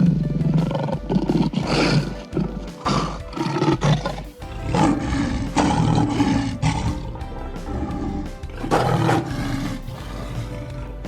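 A big cat roaring in several rough bursts over steady background music.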